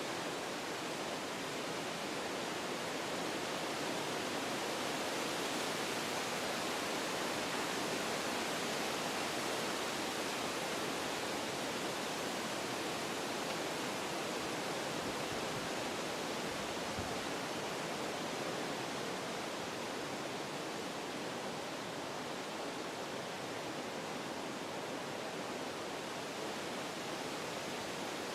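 Wind blowing through forest trees: a steady rushing of the leaves and branches that swells a little a few seconds in and slowly eases off again.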